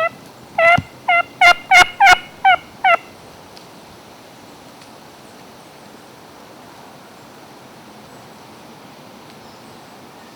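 A turkey yelping: a run of about eight short notes, each dropping in pitch, over the first three seconds.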